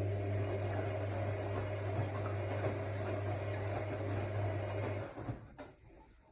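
AEG Lavamat L62850L washing machine's motor turning the drum with a steady hum, the drum's usual stop-and-go wash action. The run stops about five seconds in, and a couple of light clicks follow.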